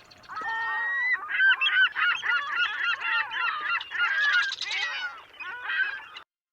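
A flock of geese honking, many calls overlapping at once, cutting off suddenly about six seconds in.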